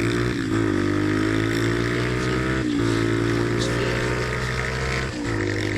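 Motorcycle engine accelerating: its pitch climbs steadily and drops sharply three times, about half a second, two and three-quarter and five seconds in, as the rider shifts up through the gears.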